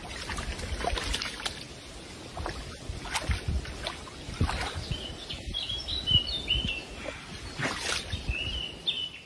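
Steady rushing outdoor noise with a few scattered knocks. From about halfway through, a small bird chirps repeatedly in short high notes.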